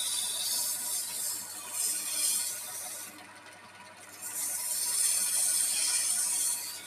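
A turning tool cutting spinning wood on a lathe, a high hiss of shavings coming off in two long passes with a brief lull in the middle.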